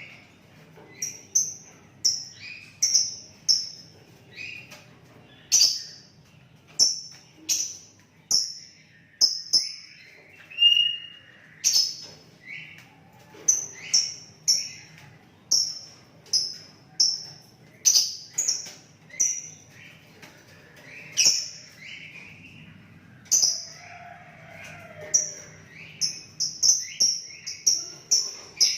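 Sooty-headed bulbul (kutilang) calling: a long run of short, sharp notes that fall in pitch, repeated about once or twice a second and coming faster near the end, with lower whistled notes between.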